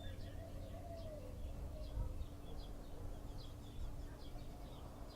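Small birds chirping, short high chirps repeating two or three times a second, over a low outdoor rumble.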